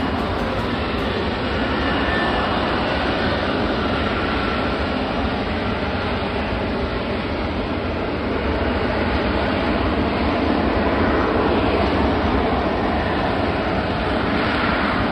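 F-35B Lightning II's F135 jet engine running loud and steady, swelling a little past the middle, with a faint whine in the first few seconds.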